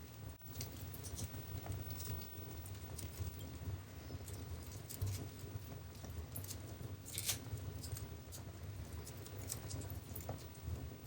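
Wood fire in a fireplace crackling: many small irregular pops over a low steady rumble, with one louder pop about seven seconds in.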